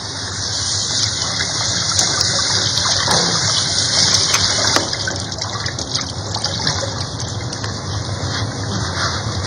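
Running water with a steady rush, with a few faint clicks.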